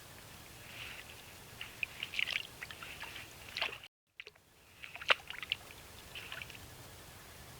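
Irregular splashing and trickling water with sharp snaps and knocks, as a North American beaver handles branches in the water at its dam. The sound cuts out completely for a moment about four seconds in.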